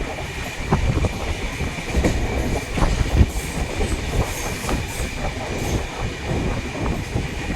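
Passenger train running, heard from on board: a steady rumble of wheels on rail with irregular clacks and knocks, and a faint steady high whine.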